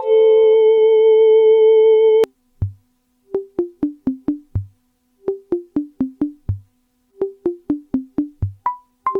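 Korg Volca FM synthesizer playing a held note that cuts off suddenly about two seconds in. A sequenced pattern of short, clicky notes then starts: a low thump followed by a run of notes stepping down in pitch, repeating about every two seconds.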